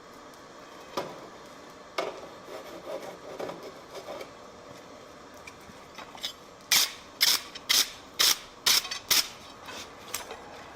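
Scraping and light metal knocks, then a run of six sharp hammer blows on metal about half a second apart, typical of a blacksmith's hammer striking stock on the anvil.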